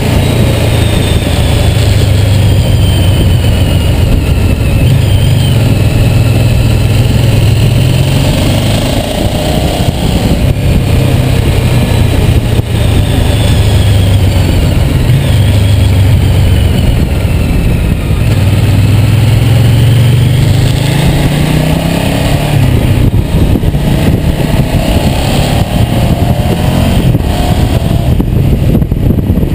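Ducati GT1000's air-cooled L-twin engine running under way on the road, with a steady rush of wind noise. The engine pitch rises as it accelerates about two-thirds of the way through.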